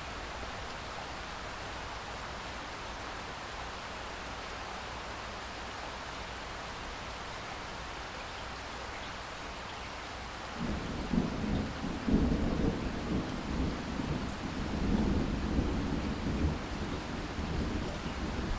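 Steady rain hissing; about ten seconds in, a low rumble of thunder starts and goes on, louder than the rain.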